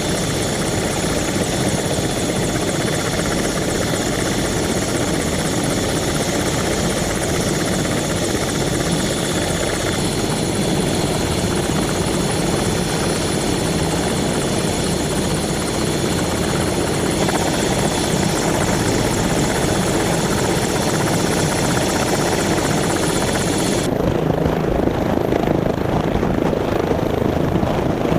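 Attack helicopter running: a steady, loud rotor and engine noise with a thin high turbine whine over it. The high whine falls away about 24 seconds in while the lower rotor noise carries on.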